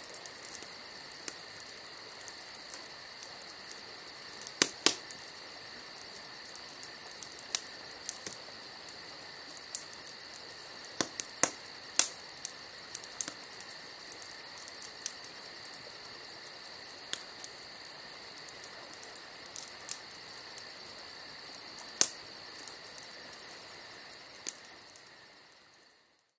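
Steady high-pitched insect trilling, with a dozen or so sharp clicks scattered through; the trilling fades out near the end.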